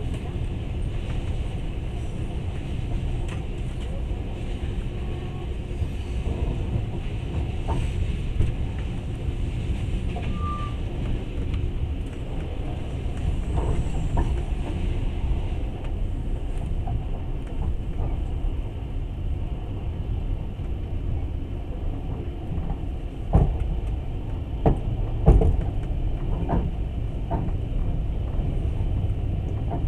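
Passenger train running on the rails, heard from inside the carriage: a steady low rumble of wheels and running gear, with several sharp knocks about three quarters of the way through.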